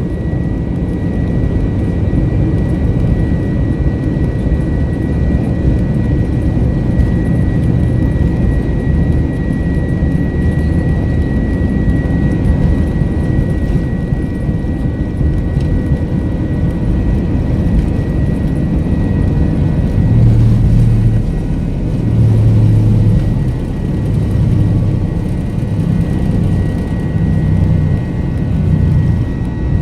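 Jet airliner's engines running during takeoff: a steady low rumble with a thin high whine over it, the rumble swelling louder a few times about two-thirds of the way through.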